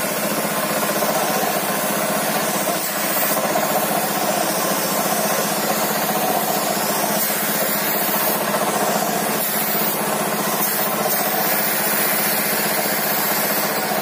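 A motor running steadily with a constant low hum, while something rubs against wood.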